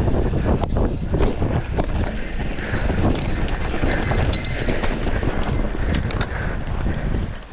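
Mountain bike ridden over a rough dirt trail: tyres rumbling over the ground and the bike clattering and rattling with irregular knocks.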